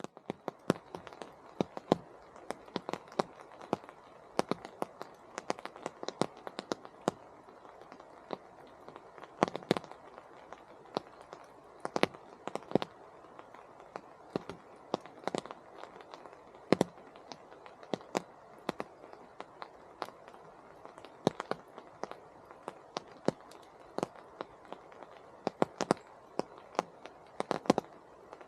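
Rain in a temperate rainforest: big drops falling from the canopy land close by as irregular sharp taps, several a second, over a steady soft hiss.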